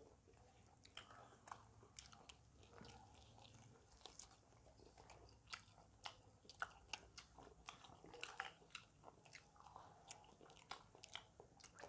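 Faint crunching and chewing of crispy fried chicken being bitten into and eaten: many short, scattered crackles, coming thicker in the second half.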